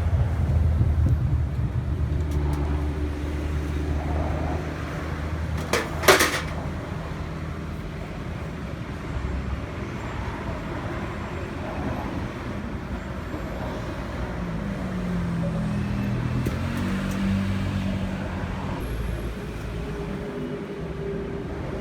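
A car engine running with a steady low hum, louder in the first few seconds, and one sharp metallic knock about six seconds in.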